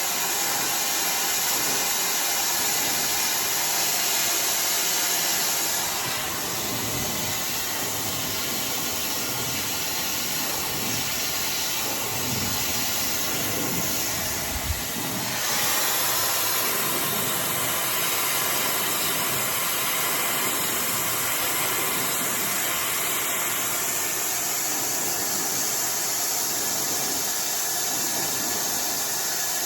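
iDryer AI Pro Style hair dryer blowing steadily, a loud even rush of air whose tone dulls about six seconds in and brightens again about halfway through. A brief knock just before the change back.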